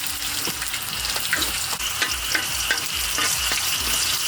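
Shredded potato and tomato pancake batter sizzling in hot oil in a frying pan, a steady crackle dotted with small pops.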